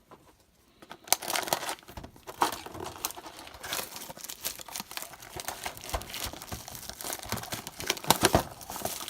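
Plastic wrapping on a box of trading cards crinkling and tearing as the box is opened, with many small sharp crackles, starting about a second in.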